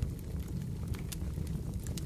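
Fireplace crackling: a steady low rumble of burning with scattered sharp pops and snaps, several in two seconds.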